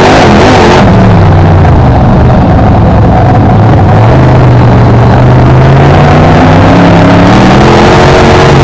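BriSCA F1 stock car's V8 engine, loud from the on-board camera. The engine note drops over the first couple of seconds, holds low through the middle, then climbs again near the end as the car lifts off and accelerates back onto the throttle.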